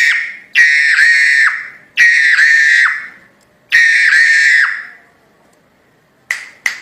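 Jalak hongkong myna giving loud, harsh, screeching calls, each about a second long, repeated about every second and a half. Two sharp clicks follow near the end.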